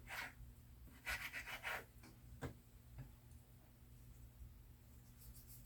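Faint kitchen knife cutting and scraping through raw chicken breast on a cutting board, a short scrape at the start and a longer rubbing scrape about a second in, followed by two light taps.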